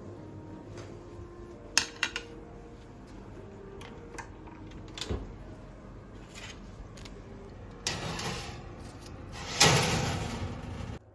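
Kitchen handling sounds: a few sharp clicks and knocks, then near the end a louder rush of noise lasting about a second and a half that stops abruptly.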